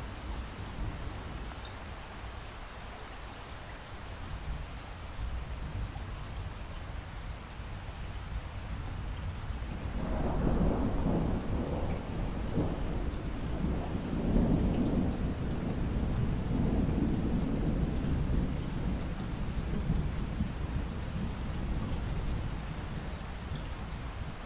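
Steady rainfall with a long roll of thunder that builds about ten seconds in, rumbles for around ten seconds, then fades back under the rain.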